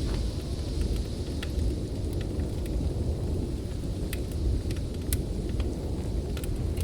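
Steady, deep roar of storm wind, with sharp pops and crackles from a wood fire scattered through it, about one every half second to second.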